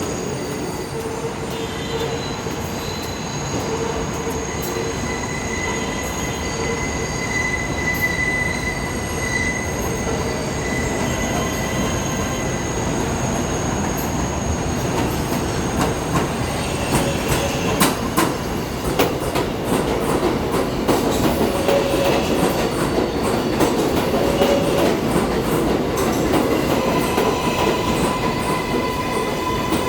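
New York City subway train running through the station, its steel wheels squealing on the rails in steady high tones over a continuous rumble, with a run of sharp clicks over rail joints about halfway through.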